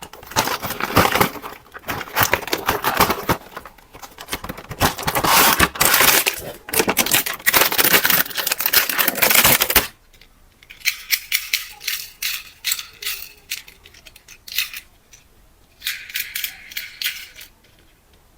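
Handled plastic, dense rattling and clicking for about ten seconds, then lighter, thinner crackling clicks.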